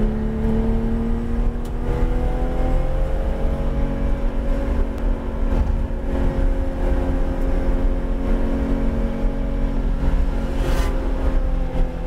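Porsche 911 GT3 RS's flat-six engine heard from inside the cabin, pulling under moderate throttle. Its pitch rises gently over the first few seconds, then holds steady, over a low rumble of road and tyre noise.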